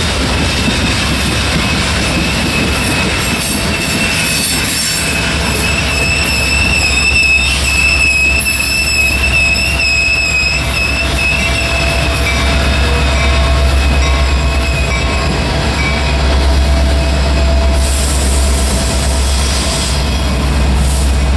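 Freight train cars rolling past with steel wheel flange squeal, a high wavering whine that is loudest in the middle and then fades. A deep diesel rumble builds in the second half as mid-train diesel locomotives pass.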